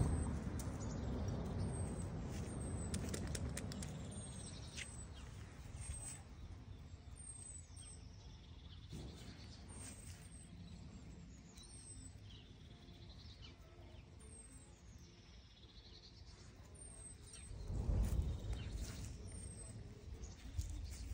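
Small bird chirping repeatedly, short very high notes that slide down in pitch about once a second. Underneath is a faint low rumble that swells briefly near the end.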